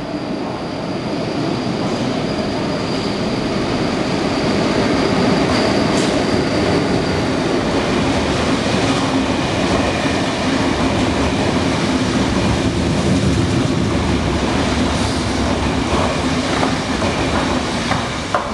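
KTT through train with double-deck coaches passing at speed: a steady rumble of wheels on rail with clickety-clack. It swells over the first few seconds and eases near the end as the last car goes by. A high whine fades out about six seconds in.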